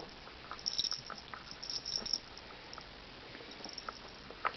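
Faint scattered rustling and light ticks of a shredded long leaf being batted and pulled about by two cats at play.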